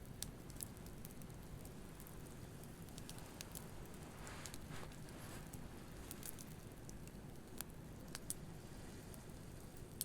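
Wood campfire crackling, with scattered sharp pops, over the steady low rumble of ocean waves. About four seconds in, a wave washes up with a brief hiss.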